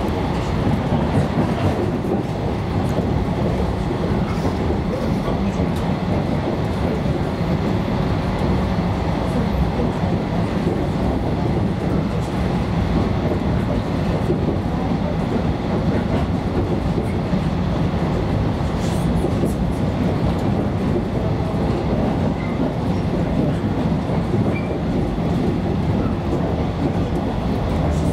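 Running noise of a JR West 115 series electric train, heard from inside the passenger car: a steady rumble of wheels on rails.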